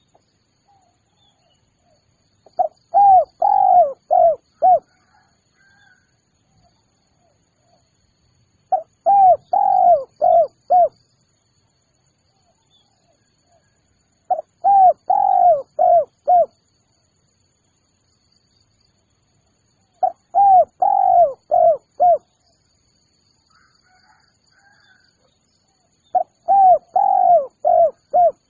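Spotted dove (tekukur) cooing: five phrases, each a run of about five short falling coos over some two seconds, repeated roughly every six seconds.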